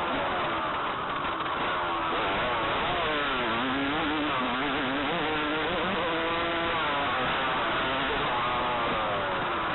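Motocross dirt bike engine running hard on the track, its revs falling and rising again and again as the throttle is rolled off and on through the corners and straights.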